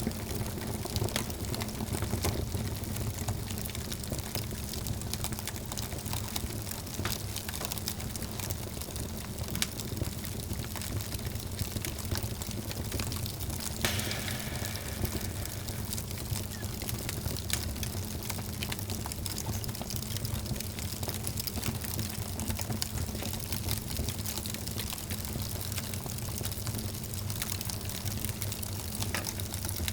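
Wood fire in a fireplace crackling and popping: many sharp, irregular crackles over a steady low rumble of burning, with a brief louder flare about halfway through.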